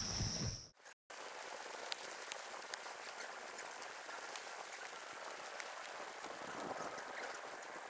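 Rain falling steadily on the forest's leaves and ground, a constant hiss scattered with sharp drop ticks. It comes in after a short break about a second in, which cuts off a louder steady high-pitched buzz with low thumps.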